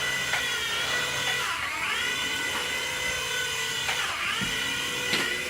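Mini remote-control helicopter's small electric motor and rotor whining, the pitch dipping and climbing back twice as the speed changes.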